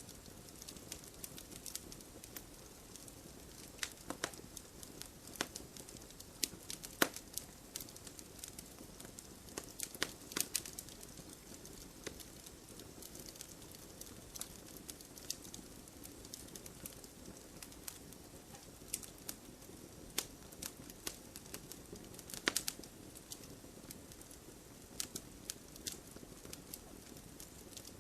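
Campfire crackling: burning wood giving off irregular sharp pops and snaps over a steady low rush of the fire.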